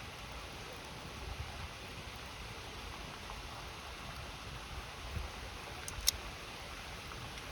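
Steady rushing of a river with a wood campfire crackling now and then; a sharp pop from the fire about six seconds in.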